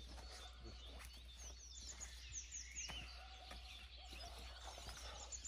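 Faint outdoor ambience with birds chirping: short, high, falling chirps repeated several times over a steady low hum.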